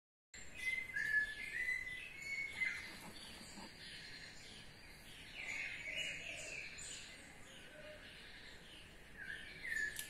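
Birds singing in short bursts of whistled notes and quick chirps. The loudest phrases come in the first three seconds, more follow around six seconds in, and another comes near the end.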